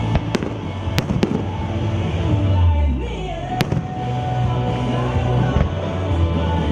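Fireworks going off in a show: a few sharp bangs in quick succession in the first second and a half, another about three and a half seconds in, with music playing underneath throughout.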